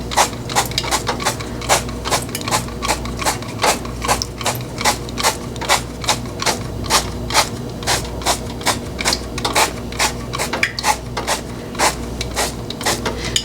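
Refillable olive oil sprayer squeezed over and over, a quick spritz about three times a second, over a steady low hum.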